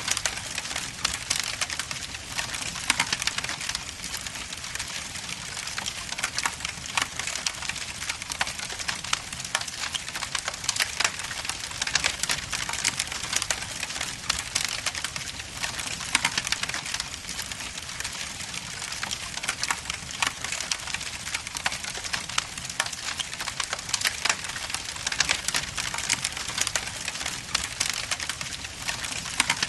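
Wood logs burning in a fireplace, crackling and popping in a dense, irregular stream of snaps over a steady hiss.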